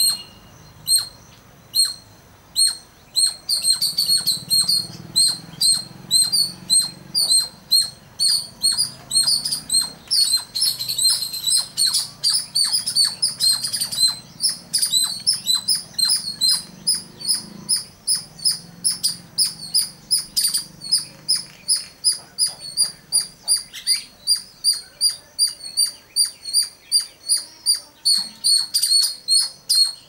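A bird chirping repeatedly: short high notes, about two to three a second, that become very regular in the second half.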